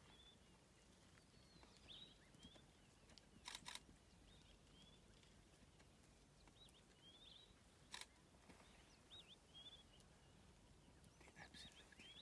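Near silence with faint, short, high bird chirps recurring throughout. A few sharp clicks break in: two close together about three and a half seconds in, and one about eight seconds in.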